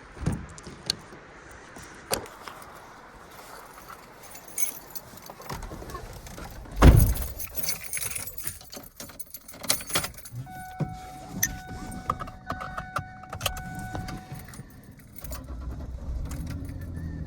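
Keys jangling and handling clicks in a 2010 Ford Ranger, with a door shutting heavily about seven seconds in and a steady electronic chime for a few seconds after. Near the end the truck's 4.0 L V6 starts and settles into a low idle.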